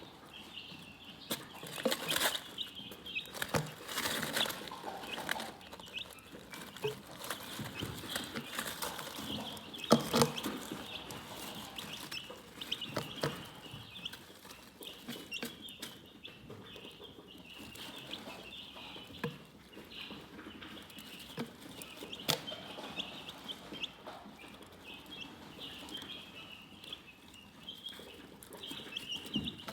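A flock of chickens chirping, a continuous chorus of short high-pitched peeps, with scattered sharp knocks and rustles throughout, several of them louder than the chirping.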